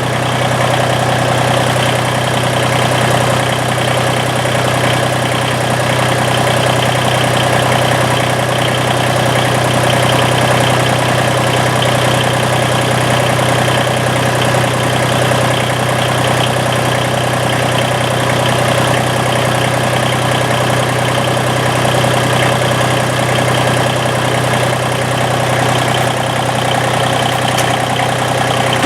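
Massey Ferguson GC1720 sub-compact tractor's three-cylinder diesel engine running at a steady speed.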